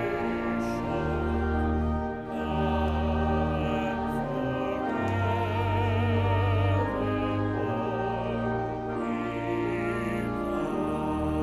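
A trained voice sings a slow sacred song with a wide vibrato over sustained low accompaniment notes.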